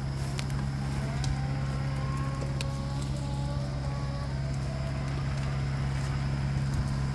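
Tractor engine running at a steady, unchanging speed, a constant low drone.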